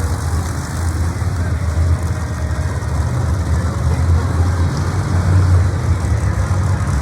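Large vehicle engine running with a steady low rumble, at about the same loudness throughout.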